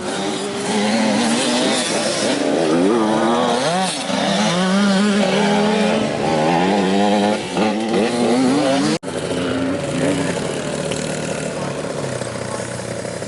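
Motocross bike engine revving, its pitch rising and falling again and again as the rider accelerates and shifts. About nine seconds in the sound cuts off abruptly and gives way to a steadier, slightly quieter engine note.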